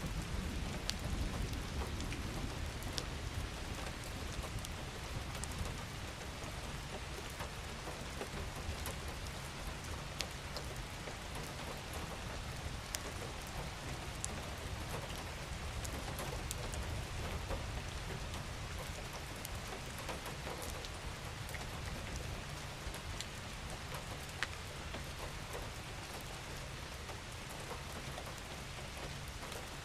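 Steady rain falling: an even hiss with many individual drops ticking sharply through it, over a low rumble.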